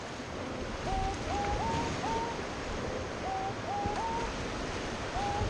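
Rushing water of the river rapids as a steady, noisy rush. Over it a short melody repeats: groups of three quick rising notes, about four seconds apart.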